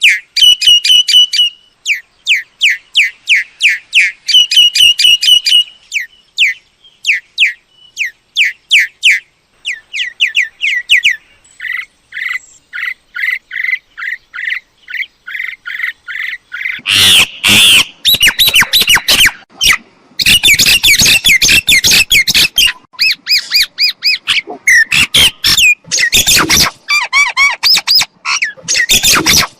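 Myna calls: a fast run of short repeated chirps, then from about halfway through louder, harsh squawking calls come in thick and fast.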